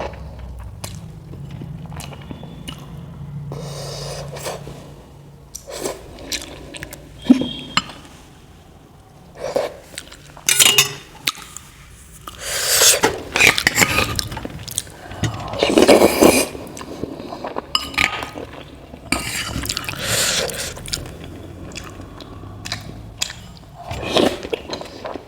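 Cutlery clinking and scraping against a plate or bowl, mixed with close-up chewing, while noodles and momos are eaten. The clinks and scrapes come irregularly, with several louder bursts in the middle.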